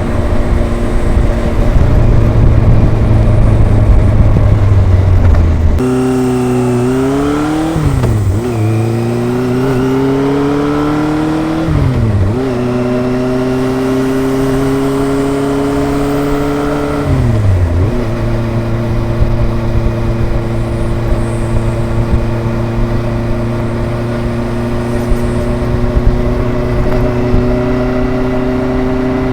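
Kawasaki ZRX inline-four engine and exhaust under way. For the first six seconds a loud rushing noise covers it. Then the engine climbs in pitch and drops sharply about three times as the rider shifts through the gears, before settling to a steady, even note while cruising.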